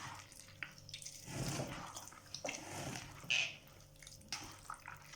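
Wet, irregular squelching of a bare hand squeezing and kneading fish with onion and tomatoes, crushing the tomatoes so the mass lets out juice.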